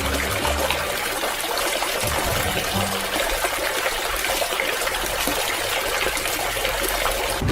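Running water: a steady trickling, splashing rush.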